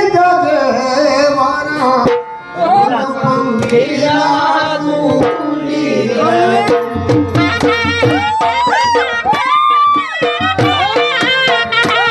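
Gujarati folk music: a wavering, ornamented melody line, credited to sarnai and voice, over dhol drumming, with deeper drum beats joining about seven seconds in.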